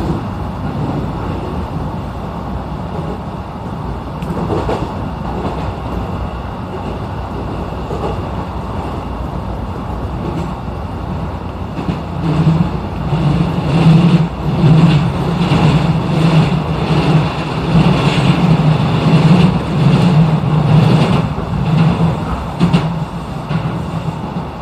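Electric commuter train running at speed on the JR San'yō Line, heard from inside the carriage: a steady rumble of wheels on rail. About halfway it grows louder, with a pulsing low rumble and irregular clatter.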